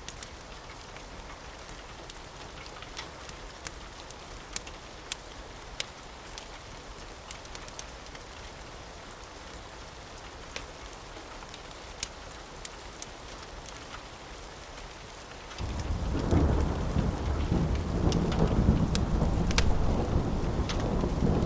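Steady rain with sharp, irregular crackles and pops of a wood fire. About fifteen seconds in, a loud, long rumble of thunder rolls in and carries on.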